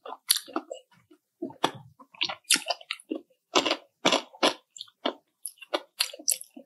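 Close-miked eating sounds: chewing with repeated crisp crunches, irregular, roughly two a second, with short quiet gaps between bites.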